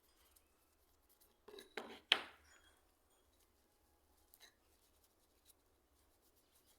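A few short clinks and knocks of small metal parts being handled, the loudest about two seconds in, followed by a couple of faint ticks.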